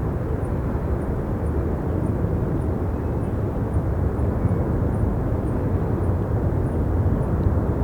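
Steady rumble of jet airliners at the airport, mixed with strong wind buffeting the microphone; the noise holds even throughout, heaviest in the low end.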